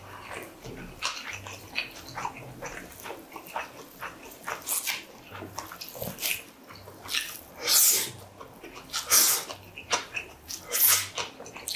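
Close-miked eating sounds: a man chewing a mouthful of seaweed-wrapped tuna rice ball with wet mouth clicks. Several loud, sharp breaths through the nose come about every second or so in the second half.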